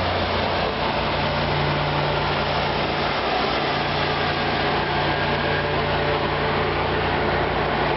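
Caltrain diesel locomotive idling at the platform, a steady low engine hum with an even hiss over it.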